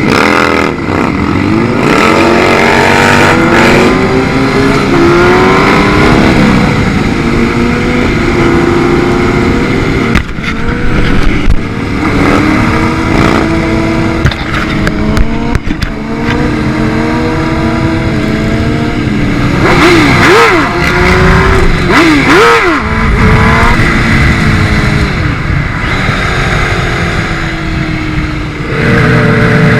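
Motorcycle engine accelerating and shifting up through the gears, its pitch climbing and then dropping back at each shift, over a steady rushing noise. A few quick rev blips come about two-thirds of the way through.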